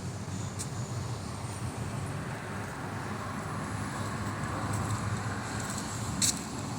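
Scania LK's V8 diesel engine running steadily with a low rumble. There is a short sharp click about six seconds in.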